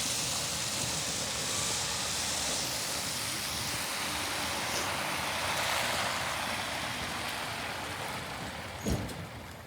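Electric garbage truck going by with a steady rushing noise that slowly fades over the last few seconds. A single thump sounds shortly before the end.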